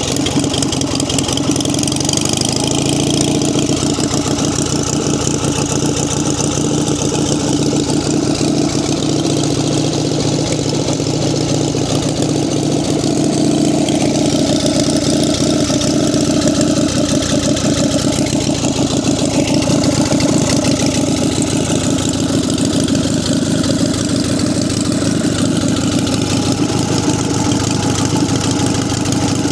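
1946 JAP 55 single-cylinder stationary engine running at a steady speed. It picks up speed slightly about two seconds in.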